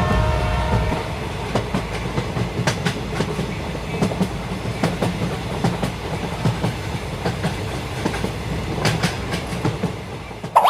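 A train passing: a steady low rumble with repeated clacks of the wheels over the rail joints, and a horn fading out during the first second. A cartoon 'boing' sound effect cuts in at the very end.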